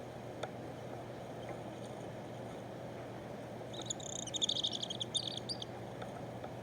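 A small bird calling a rapid, high-pitched twittering run of notes for about two seconds, starting about four seconds in, over a steady low background hum.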